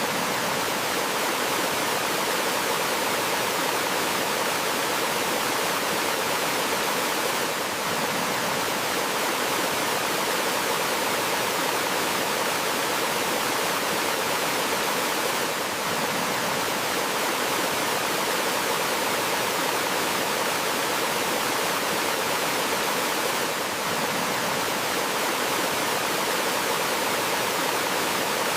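Steady, even rush of a gentle flowing stream, with a slight dip in level about every eight seconds.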